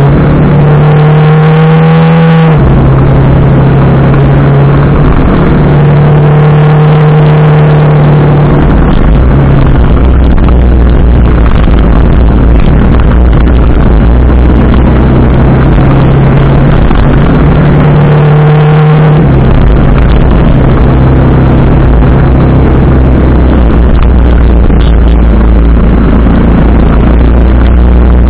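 TVS Apache RR310's single-cylinder engine running under way, its note climbing as it accelerates in the first two seconds and again about eighteen seconds in, under heavy wind rumble on the microphone. Very loud throughout.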